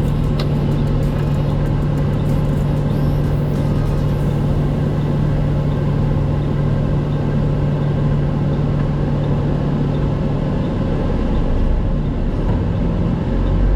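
Heard from inside the cab of a 2001 Western Star semi tractor, the truck's diesel engine runs with a steady low drone over road noise while driving. The engine note changes about 11 seconds in.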